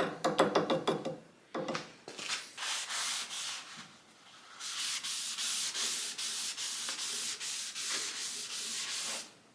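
Quick back-and-forth rubbing strokes on wood, about three to four a second, with some shorter rubbing and clatter in the first second and a half. The strokes are wood stain being worked into the wood.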